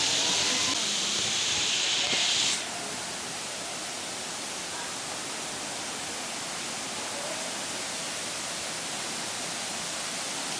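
Steady, even rushing noise of forest ambience. A loud, high hissing buzz on top of it cuts off suddenly about two and a half seconds in.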